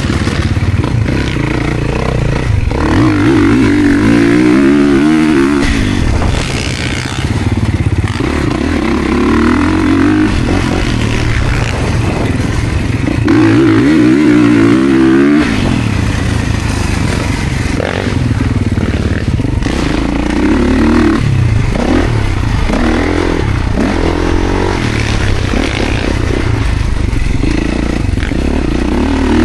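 Dirt bike ridden around a motocross track, its pitch rising and falling as it accelerates and slows, with stronger pushes several times.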